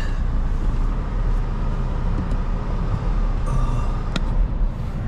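A car's engine running as the car is driven out through deep snow, a steady low rumble, with a single short click about four seconds in.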